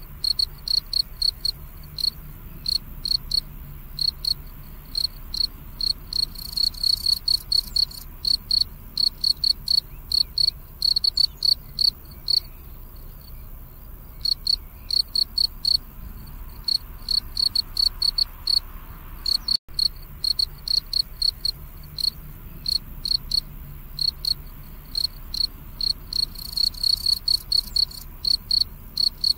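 Cricket chirping: short, high-pitched chirps repeated several times a second, with two brief pauses partway through.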